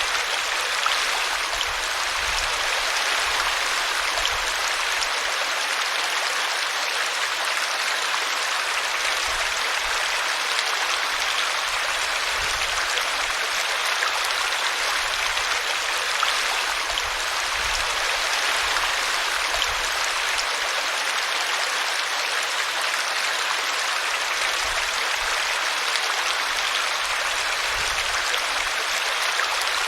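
Small brook running over a tree root: a steady rush and splash of flowing water.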